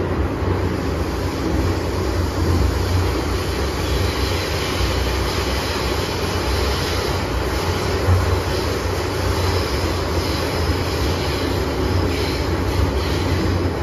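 MTR M-Train metro car running at speed: a steady low rumble of wheels and motors on the track, with a faint high wheel squeal in the second half.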